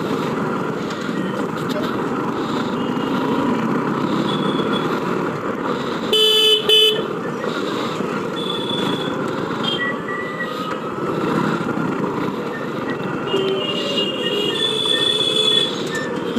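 Town street traffic heard from a moving motorcycle: steady engine and road noise with vehicle horns honking several times. The loudest is a short two-part horn blast about six seconds in, with thinner high-pitched beeps near the end.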